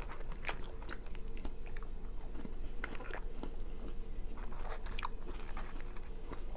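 A person chewing and biting food close to the microphone: irregular mouth clicks and crunches, over a faint steady hum.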